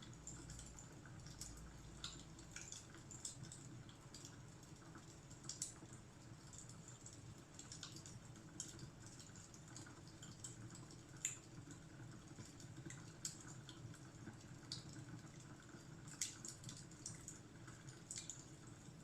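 Wood fire crackling faintly, with irregular sharp pops and snaps over a low steady rumble.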